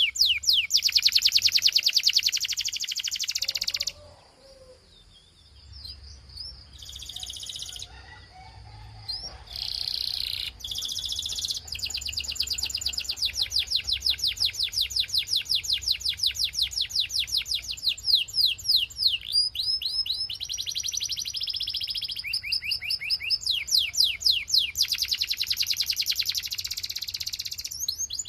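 Belgian canary singing: long, fast trills of rapidly repeated high sweeping notes, with a quieter break about four seconds in before the trills resume around ten seconds and run on in several rolls.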